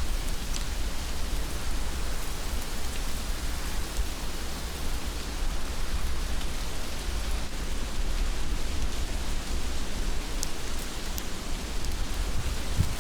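Heavy rain falling steadily: an even hiss with a deep low rumble underneath, broken by a few sharp single drops.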